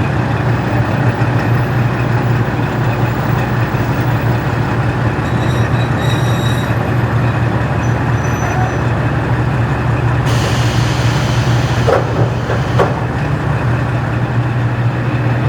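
KiHa 40-series diesel railcar running under way, its original DMF15HSA diesel engine giving a steady drone over the wheel and running noise. About two-thirds of the way through, a hiss comes in with a few short squeals.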